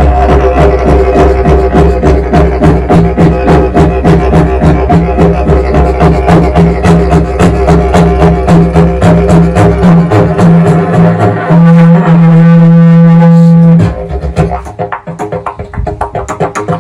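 Didgeridoo playing a steady low drone with fast rhythmic pulsing. About twelve seconds in, a loud held higher note replaces the drone for about two seconds. The playing then turns quieter and thinner, with the pulses going on, until the drone returns at the very end.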